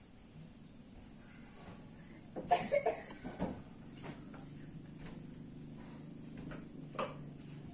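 A bird calling with a few short calls, a cluster about two and a half seconds in and one more near the end, over a steady high-pitched hum.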